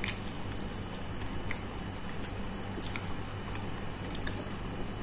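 Chewing and biting on McDonald's Minion potato snacks, the potato pieces soft rather than crispy, with a few short clicks over a steady low hum.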